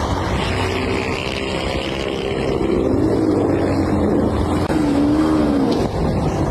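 A motor vehicle engine running, its pitch rising and falling.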